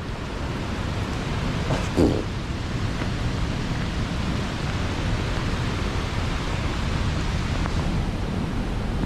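Steady rushing of the Nooksack River and falls: an even wash of white water that does not change, with a brief short pitched sound about two seconds in.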